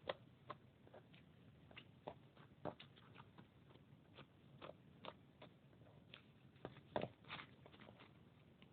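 Faint, irregular small clicks and crackles, a few each second, with louder ones just after the start and about seven seconds in.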